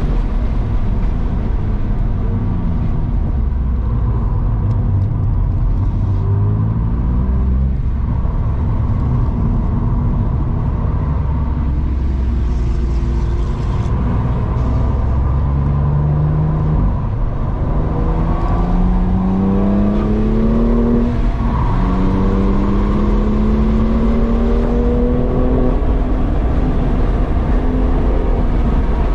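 BMW's engine heard from inside the cabin under hard acceleration on track, its pitch climbing through the revs, dropping at a gear change about twenty seconds in, then climbing again, over a steady low road and tyre rumble.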